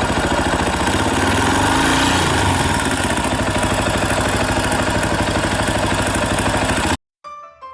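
Yamaha Tricker XG250's air-cooled single-cylinder engine idling steadily, with a slight rise around two seconds in; the abnormal noise this engine makes is put down to the cam chain tensioner. The engine sound cuts off abruptly about seven seconds in, and soft piano music starts.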